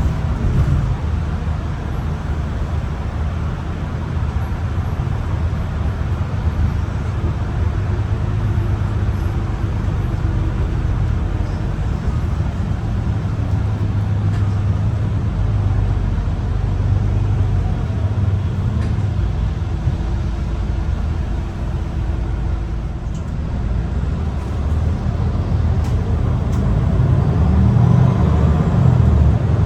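On-board sound of a MAN ND323F Euro 6 double-decker bus being driven: a steady low engine drone with road and tyre noise, growing louder near the end as the bus pulls harder.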